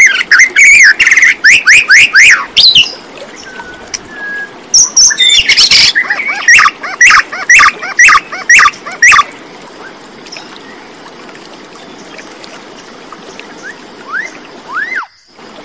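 A bird chirping in loud, rapid series of short notes that sweep down in pitch, in two bouts over the first nine seconds or so, then a few rising chirps near the end.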